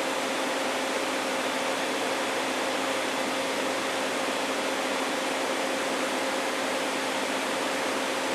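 Electric fan running steadily: an even rushing noise with a faint low hum.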